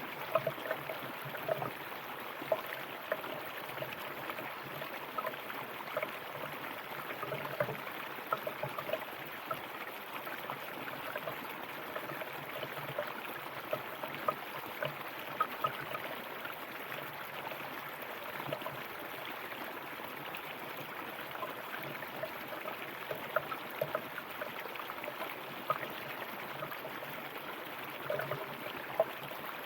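A river running over rocks: a steady rush of flowing water with frequent small splashes and gurgles.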